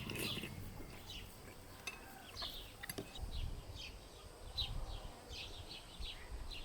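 Small birds chirping: a run of short, falling chirps repeated every half second or so, with a few light clinks and a low rumble underneath.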